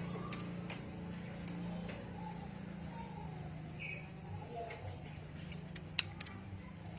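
Faint cooing of a puter dove under a steady low hum, with a short high chirp about four seconds in and a single sharp click about six seconds in.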